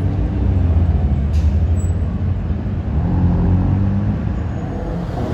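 Car engine and exhaust running at low revs as cars roll past, a steady low rumble whose pitch shifts slightly about three seconds in.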